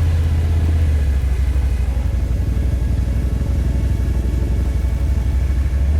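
ATV engine running steadily close by, a loud, even low rumble.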